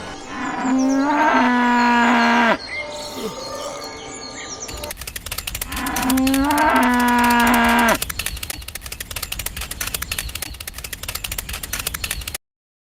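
A cow mooing twice, each call about two seconds long, starting a little higher, holding steady, then dropping away. From about five seconds in a fast, even rattle runs under the second moo and stops abruptly near the end.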